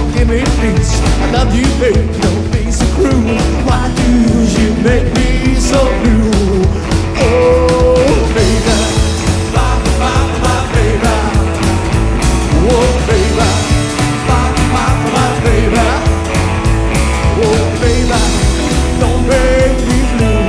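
Live rockabilly band playing rock and roll: a steady bass and drum beat under a lead line of sliding, bending notes.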